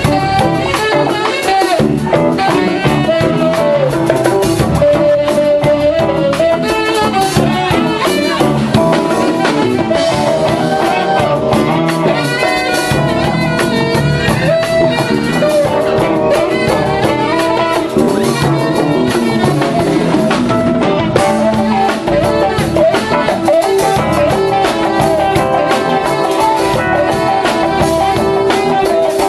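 Live band playing an instrumental passage of a soul tune: drum kit, bass, keyboards and percussion keep a steady groove under a wandering melodic horn line.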